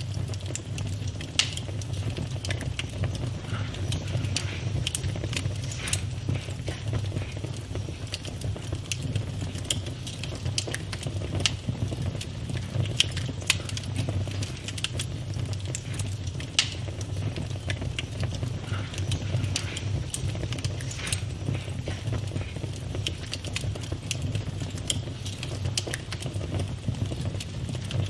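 Campfire burning steadily with a low rumble of flames and irregular crackles and pops from the burning wood, a few sharper snaps standing out.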